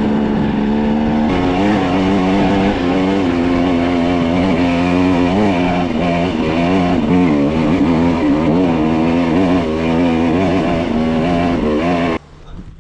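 Two-stroke KTM dirt bike engine running under riding load, its pitch rising and falling with the throttle. It cuts off abruptly near the end.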